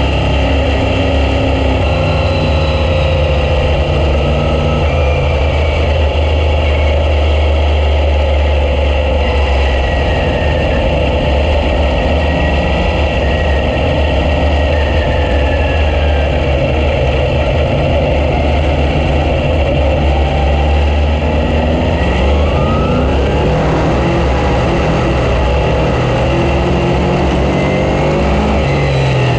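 Dirt-track race car engine running steadily under throttle, its pitch rising and falling as the car laps the track.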